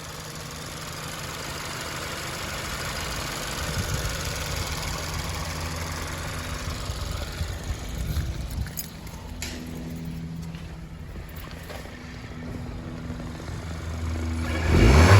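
Hyundai Elantra N Line's 1.6-litre turbocharged four-cylinder engine running, its steady engine note under a hiss that fades away over the first several seconds. A few sharp clicks come around nine seconds in, and the engine gets louder near the end.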